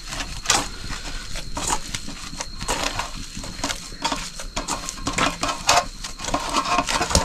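Hands kneading and mashing a boiled-potato mixture for potato chop: soft, irregular squishing and crushing with light clicks.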